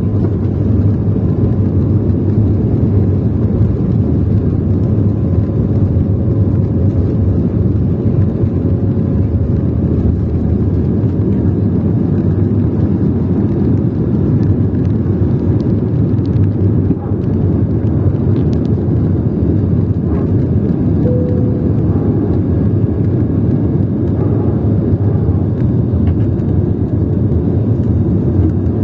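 Jet airliner's engines with a steady, loud low rumble, unbroken throughout.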